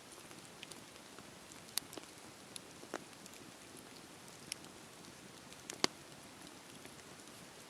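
Campfire burning with a soft steady hiss and scattered sharp crackling pops, the loudest about six seconds in.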